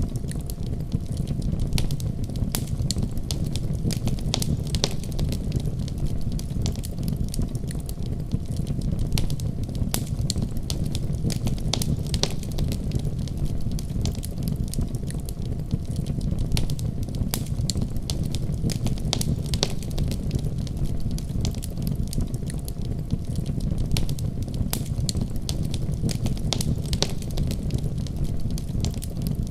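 Fireplace fire crackling: a steady low rumble of flames with frequent sharp, irregular pops and snaps.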